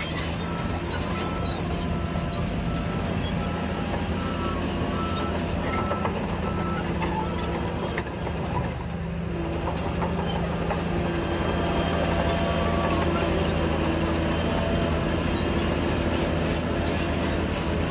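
Heavy diesel earthmoving machinery running steadily, with the clanking of crawler tracks. A backup alarm beeps in an even series through the first half, stopping about seven seconds in.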